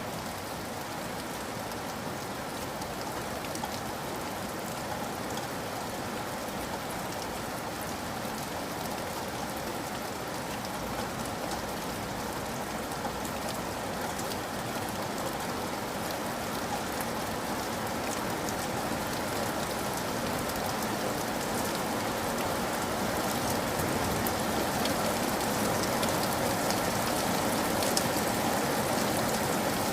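Steady rain falling, a dense patter of drops on a surface, gradually growing a little heavier.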